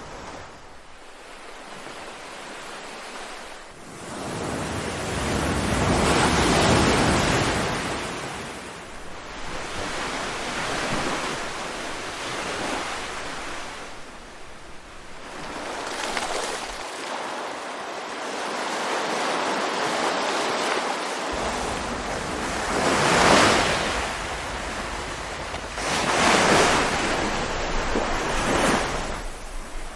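Ocean waves breaking and washing ashore, the surf swelling and ebbing in slow surges, with the strongest breaks about two-thirds of the way through and again near the end.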